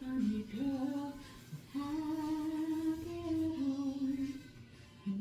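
A woman singing a slow tune without accompaniment, in long held notes broken into a few phrases.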